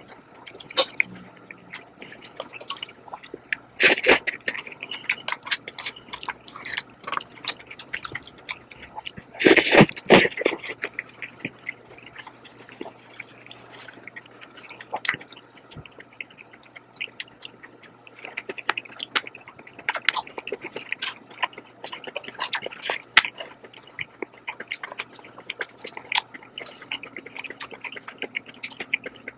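Close-miked wet mouth sounds of chewing jjajang (black-bean-sauce) noodles, a dense patter of small sticky clicks. Louder noisy bursts come about 4 seconds and about 10 seconds in.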